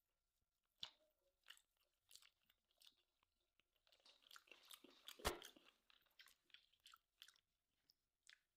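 Faint close-up chewing of crispy-topped tomahawk steak fat: scattered small wet clicks and crunches. They come thicker about four to five and a half seconds in, with one louder crunch near the middle of that stretch.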